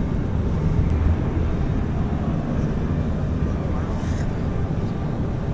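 Crowd ambience of a busy exhibition hall: many people talking indistinctly in the background over a steady low hum.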